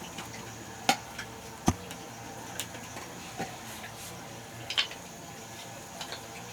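A few sharp knocks and clicks of hard objects being handled, at irregular times, the loudest about a second and a half in, over a faint steady hiss.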